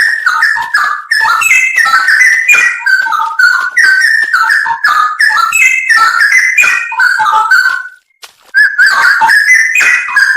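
Straw-headed bulbul (cucak rowo) singing a loud, fast run of rich, bubbling whistled phrases that jump up and down in pitch, breaking off briefly about eight seconds in before going on.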